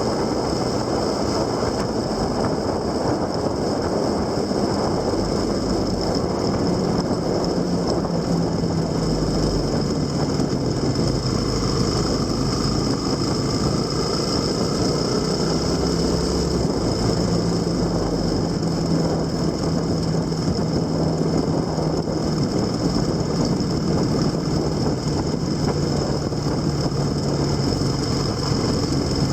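A vehicle engine running under way, with a dense, steady rush of wind and road noise; the engine's pitch shifts a little several times.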